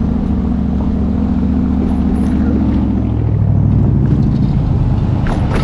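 A motor vehicle's engine running close by in road traffic, its pitch dropping about three seconds in, over a low rumble.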